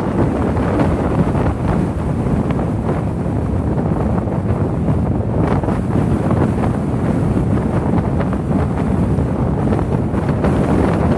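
Strong gale wind buffeting the microphone, a loud, steady low rumble.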